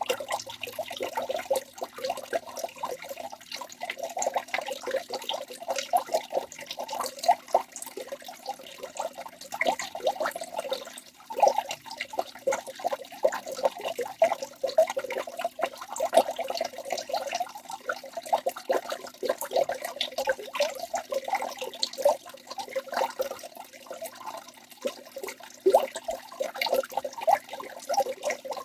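Waterfall: a continuous rush of falling water made up of many quick, irregular splashes.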